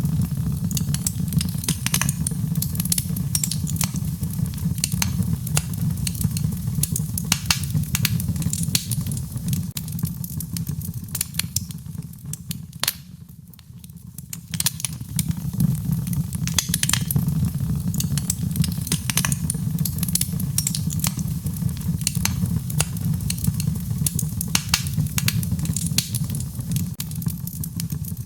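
Wood fire crackling with frequent sharp pops and snaps over a steady low rumble, mixed with rain; the whole bed dips briefly in level about halfway through.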